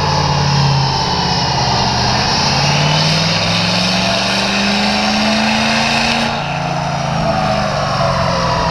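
Turbo diesel truck engine running on a dyno, its pitch climbing steadily for a few seconds under throttle, then dropping abruptly about six seconds in as it is let off, with a high whine rising over it.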